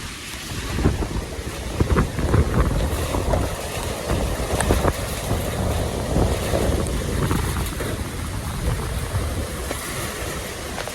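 Heavy rain pouring down in a storm, with strong gusting wind buffeting the microphone in an uneven low rumble.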